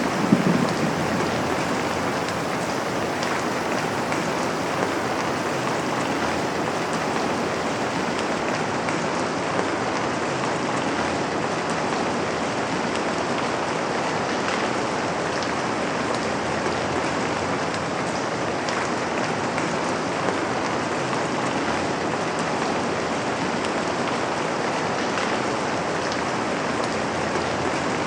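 Steady rain falling on a window, with a low rumble of thunder dying away in the first second.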